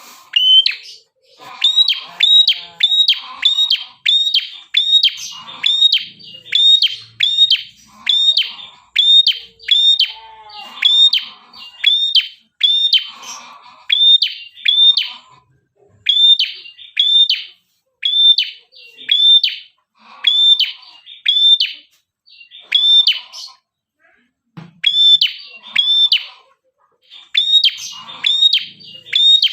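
Prenjak kepala merah singing hard: a long, rapid series of sharp, identical chirps, about two a second, broken by a few brief pauses. Fainter, lower chirping runs underneath.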